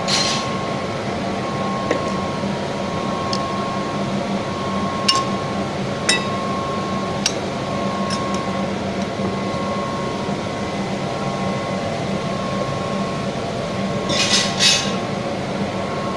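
Steady machine hum in a glass workshop, with a faint tone that comes and goes. A few single sharp clicks or clinks sound through it, and a brief cluster of clinking comes near the end.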